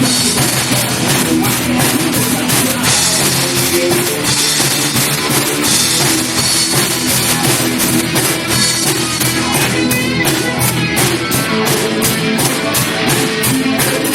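Live rock band playing an instrumental passage: drum kit keeping a steady beat under distorted electric guitar and bass.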